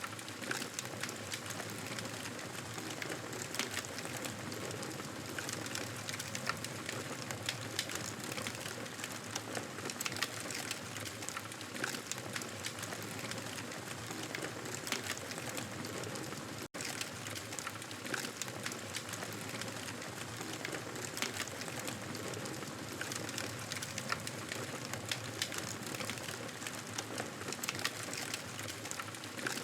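Wood fire crackling steadily in a fireplace: a constant hiss dotted with many small pops and snaps, broken by a split-second gap about halfway through.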